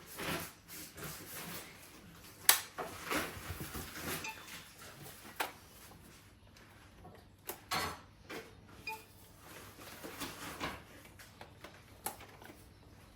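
Irregular clicks, knocks and rustling of things being handled, with a sharp click about two and a half seconds in.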